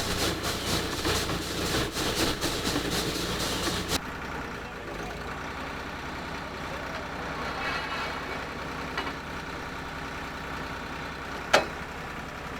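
Water-well drill rig drilling through rock and gravel with a three-wedge bit: a loud, rattling drilling sound for about four seconds, then a sudden drop to a quieter steady engine run. A single sharp clank near the end.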